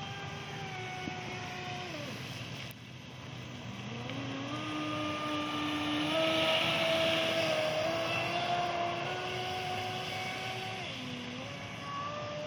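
Brushless electric motor of a Traxxas Spartan RC speedboat whining as it runs on the water, the pitch falling and fading about two seconds in, then rising again as the throttle opens. A rushing hiss of water peaks along with the whine about halfway through, and the pitch dips briefly near the end before climbing again.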